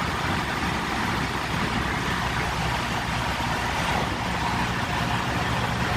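Steady hum of an idling diesel truck engine, unchanging throughout.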